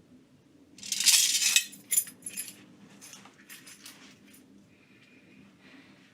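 A loud jangle of small hard objects about a second in, followed by several lighter clinks and clicks.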